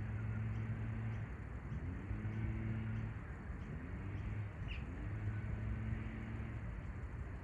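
Low mechanical hum with a few steady tones that swells up, holds for a second or so and drops away, over and over about every three seconds. A brief bird chirp comes about halfway through.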